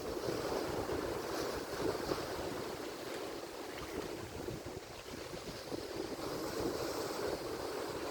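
Atlantic Ocean surf: a continuous wash of breaking waves that swells and eases gently.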